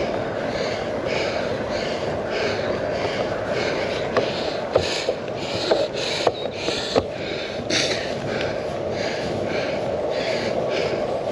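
A cyclist's fast, heavy breathing, panting about twice a second from exertion, over steady wind rush on the microphone. A few sharp clicks come in the middle.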